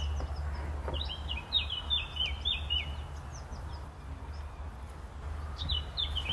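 A small songbird repeating short, falling chirps in quick runs, starting about a second in and again near the end, over a steady low hum.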